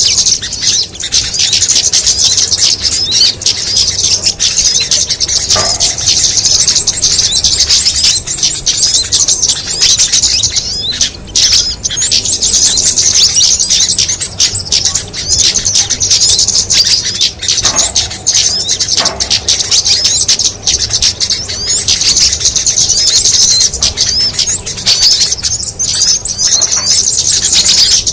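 A small-songbird lure call recording: a dense, continuous stream of rapid, high-pitched chirps and twitters, used to draw small birds in.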